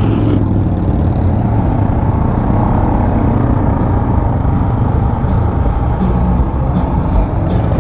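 A motorcycle underway: steady engine drone mixed with wind rush.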